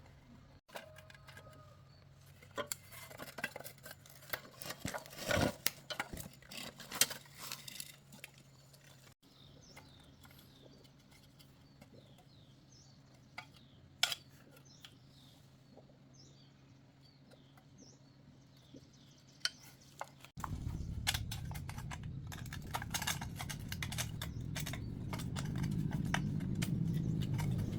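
Metal hand tools clinking and clanking irregularly on machine parts during repair work. After a cut it goes quiet, with only a few clicks and faint high chirps. Then, about two-thirds of the way in, a low steady rumble starts abruptly and grows louder toward the end.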